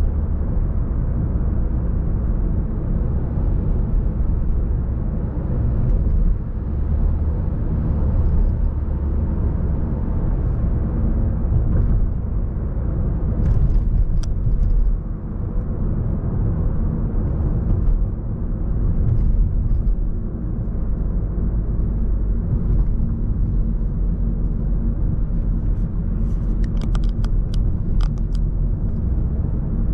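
Steady rumble of road traffic on a busy city street, with a few faint ticks about halfway through and again near the end.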